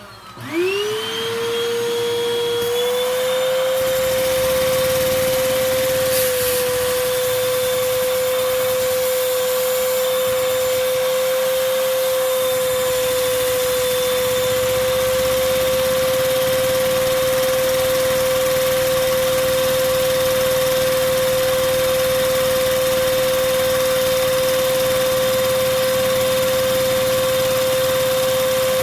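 Vacuum cleaner motor switched on, its whine rising in pitch over about a second and then holding steady, its suction driving a single-cylinder Lego vacuum engine.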